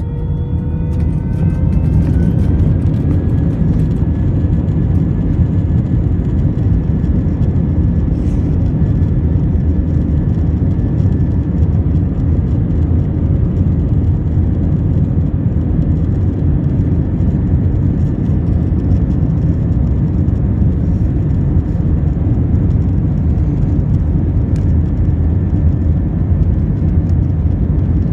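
Jet airliner's engines spooling up to take-off power, heard inside the cabin: a whine that rises in pitch over the first couple of seconds, then a loud steady rumble of the take-off roll, with faint clicks and rattles.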